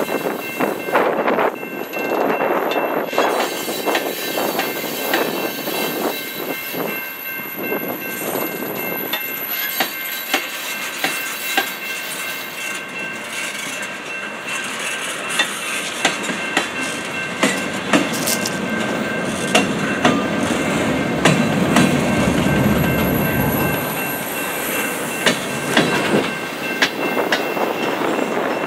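Freight cars rolling past over a grade crossing, their wheels clicking over a noisy rail joint in an uneven click-clack, with a steady high ringing tone throughout. The low rumble grows heavier about 21 seconds in.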